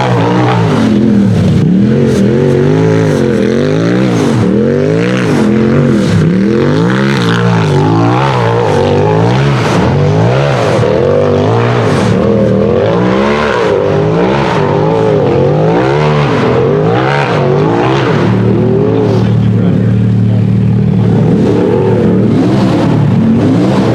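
UTV race-buggy engine revving hard, its pitch climbing and dropping over and over as the throttle is worked on and off.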